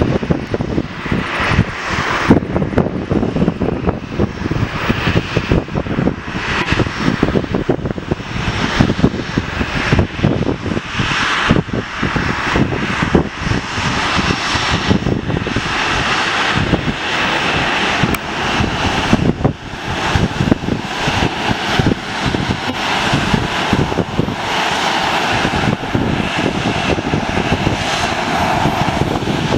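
Boeing 737-700 BBJ's jet engines running, heard under heavy wind buffeting on the microphone. The engines' hiss becomes steadier and more prominent from about halfway through.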